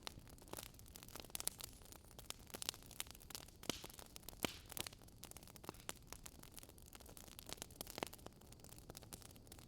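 Wood fire crackling: irregular sharp pops and snaps, a few louder ones about three and a half and four and a half seconds in, over a soft steady hiss.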